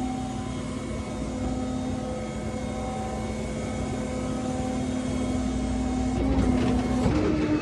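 Flatbed tow truck's engine running steadily while driving, with a steady low drone and road rumble; the engine's pitch steps up near the end.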